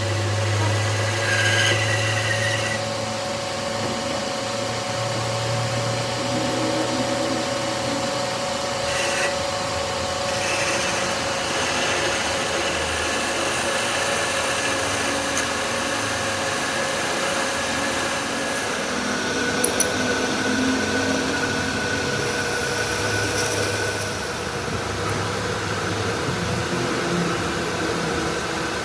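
A workshop machine tool running steadily for the whole stretch, with a constant hum under its cutting noise.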